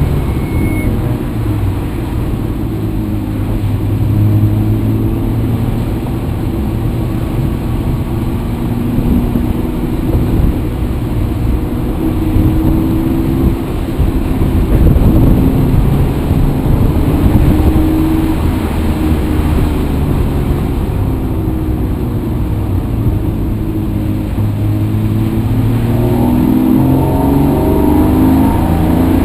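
Motor vehicle engine running while driving, its pitch rising and falling with speed, climbing near the end as it accelerates.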